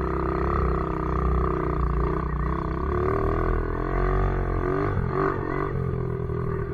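Pit bike's small single-cylinder engine running at low, uneven revs as it is ridden on snow, its note wavering, dipping and picking up again about five seconds in.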